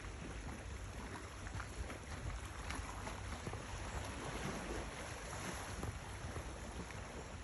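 Steady wash of wind and sea by the shore, with faint scattered crackles.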